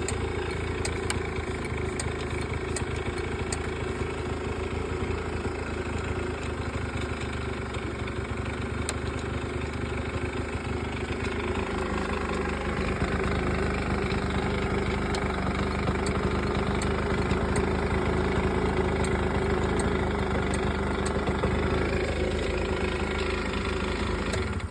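Yamaha Jog 27V scooter's small two-stroke engine idling steadily after starting; about halfway through its pitch shifts up a little and it gets slightly louder, then holds steady.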